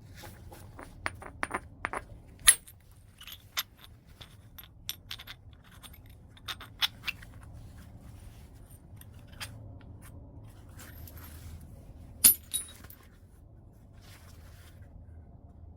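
A large piece of white chert being knapped: irregular sharp, glassy clicking strikes of the knapping tool on the stone. There is a quick cluster in the first two seconds, a loud strike about two and a half seconds in, scattered ticks after it, and another loud strike about twelve seconds in.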